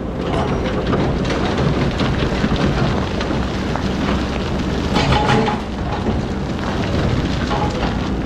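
Excavator diesel engine running steadily under a dense rushing noise, with a louder burst about five seconds in.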